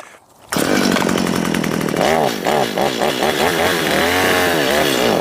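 Stihl MS210 chainsaw's two-stroke engine comes in loud about half a second in and revs up and down with the throttle, then drops away just before the end. Its low-speed mixture screw has just been turned about an eighth of a turn richer because the saw seems to need more low.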